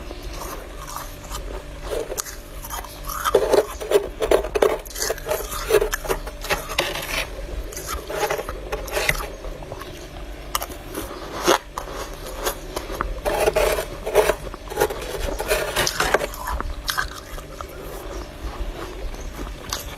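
Freezer frost being scraped and crunched, in irregular bursts of gritty scraping and sharp crunches.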